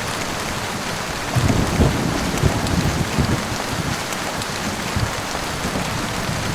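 Heavy rain falling in a steady hiss, with low rolling thunder rumbling underneath that swells about a second and a half in.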